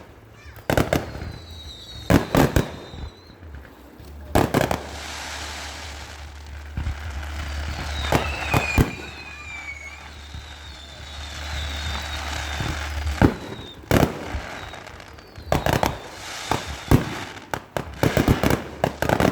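Fireworks going off: sharp bangs, some single and some in quick clusters, with a stretch of dense crackling in the middle and a few whistles falling in pitch.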